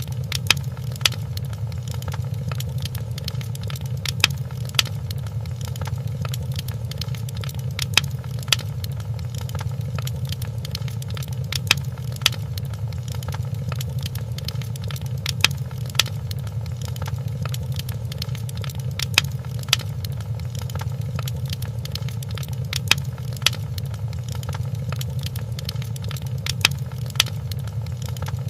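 Wood fire crackling in a fireplace: a steady low rumble of flames with sharp pops that come in pairs, the pattern repeating about every four seconds.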